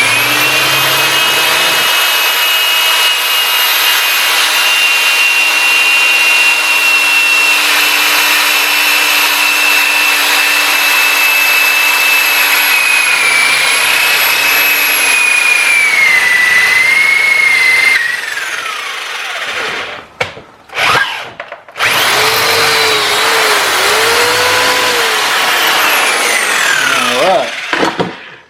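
Electric drill with a 5/16-inch bit boring a hole through steel strap: a steady high motor whine that sags in pitch under load and winds down about two-thirds of the way in. After a couple of short blips comes a second run of drilling that winds down near the end.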